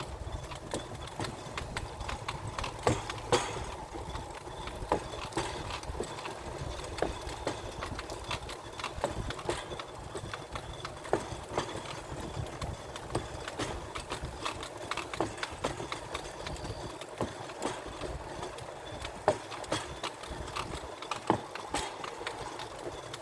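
Pedal-powered rail car rolling along the track. Its steel wheels give a steady low rumble and frequent irregular clicks and knocks.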